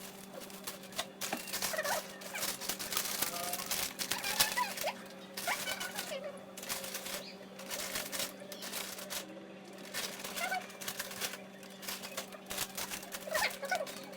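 Wood campfire crackling and popping in quick irregular snaps, over a steady low hum, with scattered short pitched calls or voices in the background.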